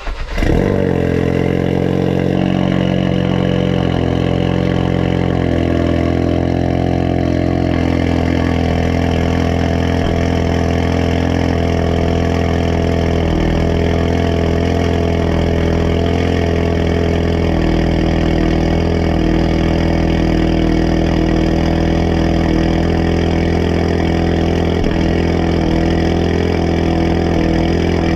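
Ford Focus mk3 engine through a Scorpion aftermarket exhaust with its valve open, starting from cold: it fires up at the start and runs at a fast cold idle that steps down in pitch over the first several seconds, then idles steadily.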